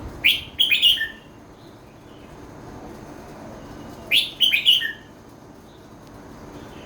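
Caged red-whiskered bulbul singing two short phrases about four seconds apart. Each phrase is a quick run of bright notes ending on a lower note.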